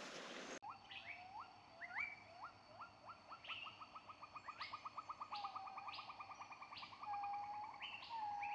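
Faint birdsong: a bird gives several quick rising whistled notes, then a fast run of short repeated notes, about ten a second, with higher notes scattered over it. A hiss in the first half second cuts off suddenly.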